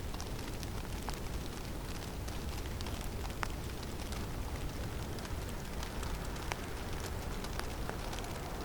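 Snowstorm in a conifer forest: a steady low rush of wind with many scattered light ticks and patters of falling snow and ice.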